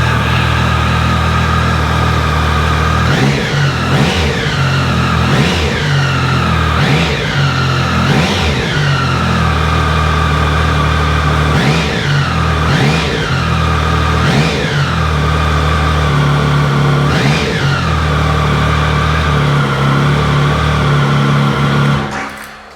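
Triumph Speed Triple 1050's inline three-cylinder engine idling just after start-up, blipped about nine times with quick revs that rise and fall back to idle. It settles to idle again and cuts off near the end.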